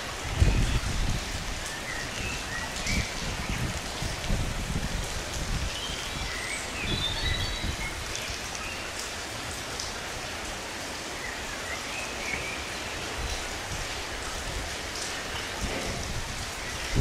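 Steady rain falling, with a few low thuds, the loudest about half a second in, and a bird chirping now and then.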